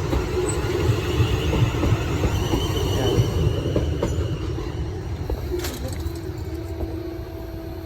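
Passenger train running past on the rails: a steady rumble of wheels, with a faint high squeal in the middle, easing off toward the end as a steady low tone comes in.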